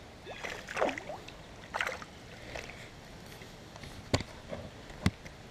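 Water splashing and sloshing in a shallow creek, in short irregular bursts, with two sharp clicks about a second apart near the end.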